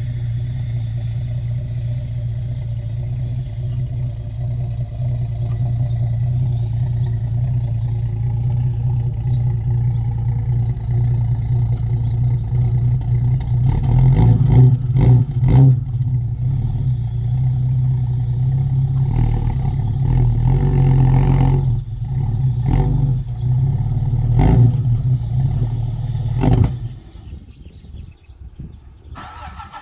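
Chrysler Hemi 265 straight-six in a Valiant CL Charger running steadily at first, then from about halfway stumbling and surging unevenly before it dies near the end. The owner puts this known stalling trouble down to dirty fuel lines.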